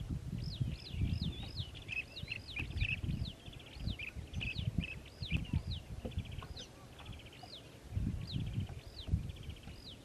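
Birds calling: many short, high chirps that rise and fall, about two a second, mixed with fast buzzy trills. A low, irregular rumble runs underneath.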